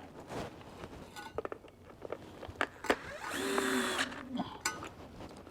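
A power drill-driver runs briefly, for under a second, about three seconds in, driving a bolt, with scattered clicks of tools and parts being handled around it.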